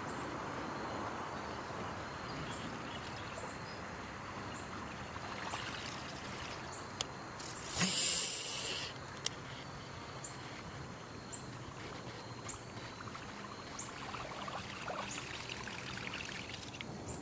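River water running and trickling steadily, with a brief loud hiss about halfway through and a few light ticks around it.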